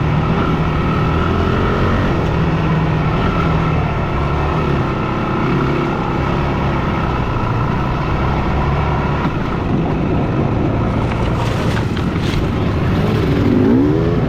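Yamaha WR250F dirt bike's four-stroke single-cylinder engine running under way at fairly steady revs, with the revs rising and dipping in quick blips near the end.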